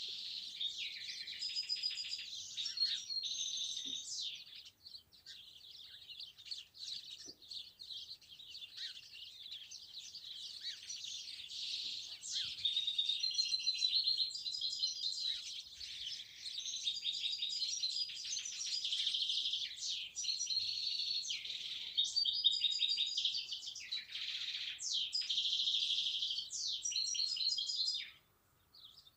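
Many small songbirds chirping and trilling together in a dense, continuous chorus of high-pitched calls, with a brief lull near the end.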